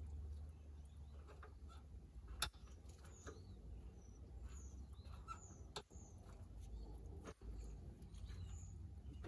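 Faint, short high chirps of small birds over a low rumble, with a sharp click about two and a half seconds in and two fainter clicks later.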